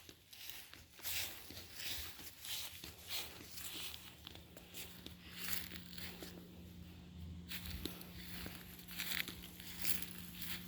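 Dog snoring in its sleep: a run of fairly quiet, noisy breaths, about one a second.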